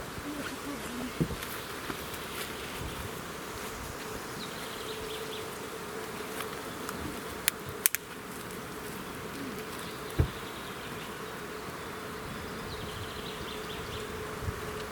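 Insect buzzing, a steady hum like a fly or bee close by, with a few sharp clicks just before eight seconds in and a knock near ten seconds.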